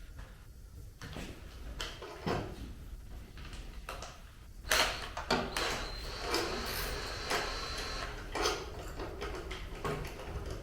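Hand tools and motorcycle parts being handled: scattered clicks and knocks, then a busier stretch of metallic rattling and scraping from about five seconds in.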